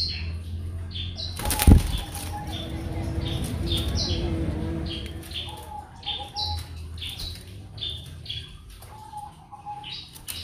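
Small birds chirping: short high chirps about twice a second over a low hum, with one sharp knock about two seconds in.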